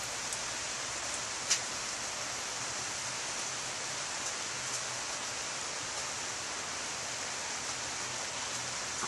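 Steady soaking rain falling, an even hiss, with scattered sharp ticks of drops striking close by, the loudest about a second and a half in.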